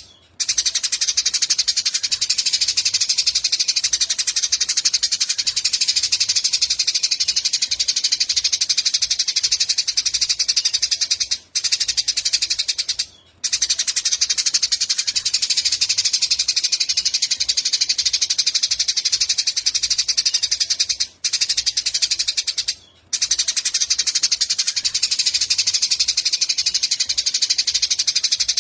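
A flock of Eurasian tree sparrows chirping in a dense, continuous chatter, breaking off briefly a few times.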